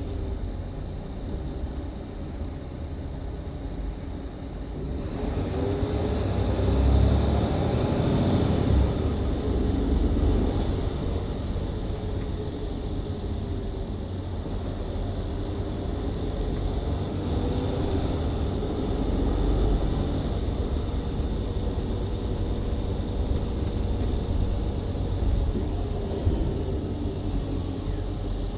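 Mercedes-Benz Citaro C2 LE hybrid bus's diesel engine and Voith automatic transmission heard from inside the bus. About five seconds in the engine picks up under acceleration and its tone rises for a few seconds, then settles into steady running.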